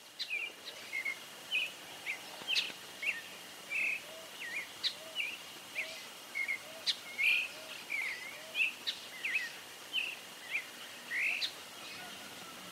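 Wild birds chirping and calling: many short, separate chirps at irregular intervals, over a faint steady high tone and a soft low note that repeats about every half second through the middle.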